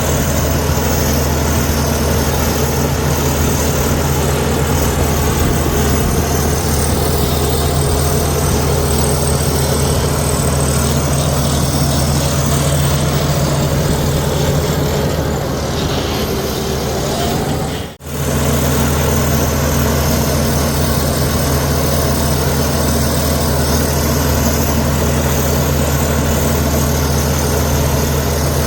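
Diesel engine of a Komatsu D61EX bulldozer running steadily at a constant pitch, with a momentary break about eighteen seconds in.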